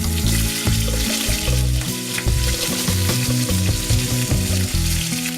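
Large pieces of potato sizzling as they fry in hot oil in a pan, with the pieces stirred and moved around now and then.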